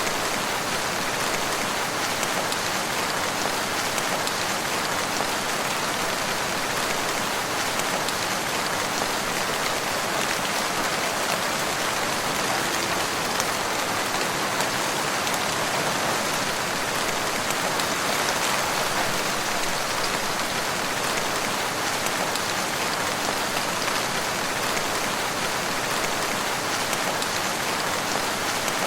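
Steady rain falling in a forest, an even hiss of many drops with no change in strength.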